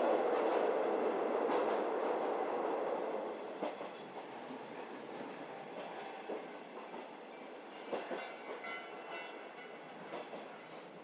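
JR 711 series electric train running, heard from inside the carriage: a loud rolling rumble that drops off about four seconds in, leaving scattered wheel knocks over rail joints and a faint brief squeal near the end.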